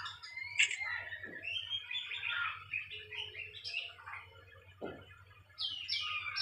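A bird chirping repeatedly in short, varied high calls, some dropping in pitch, over a faint steady low hum.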